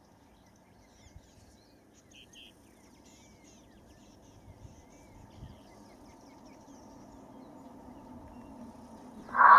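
Faint outdoor ambience with scattered small bird chirps and twitters. Near the end, loud music with a wavering melody cuts in suddenly.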